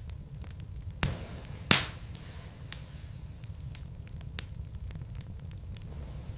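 Wood fire burning in a fireplace: a steady low rumble of flames with scattered sharp crackles and pops. Two louder pops come about one second in and just under two seconds in, the second with a brief hiss after it.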